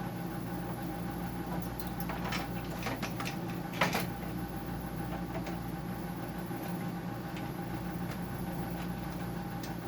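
Dehumidifier's refrigerant tubing being cut: a few sharp clicks and snaps, the loudest about four seconds in, over a steady low machine hum.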